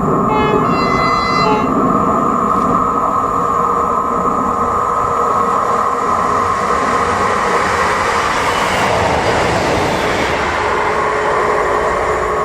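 Train running past with a short horn blast about half a second in; its running noise swells to its loudest around nine seconds, over a steady whine.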